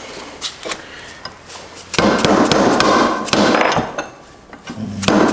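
Rapid metal-on-metal hammering, in a loud spell starting about two seconds in and another near the end, after a few light clinks: axle seals being driven out of a Subaru six-speed transmission's aluminum case.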